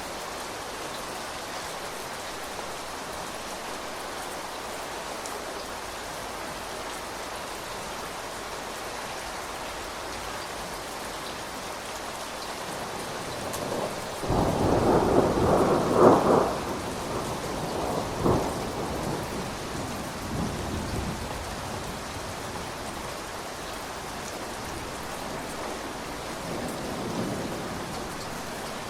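Steady rain falling, with a roll of thunder about halfway through. The thunder rises suddenly, peaks with a loud crack, gives a second crack a couple of seconds later, then rumbles away over several seconds.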